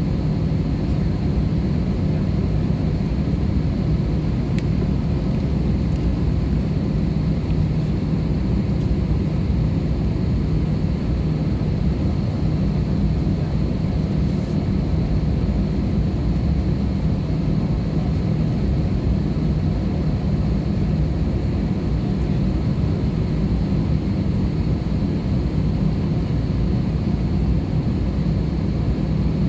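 Steady cabin noise inside an Airbus A320-214 with its CFM56 engines running: an even low rumble with a thin, steady high whine above it.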